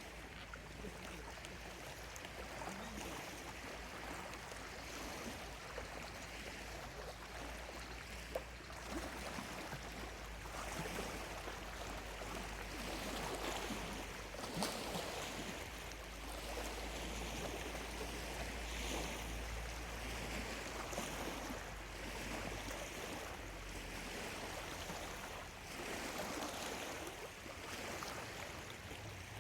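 Small lake waves lapping on the shore, the wash swelling and easing every few seconds.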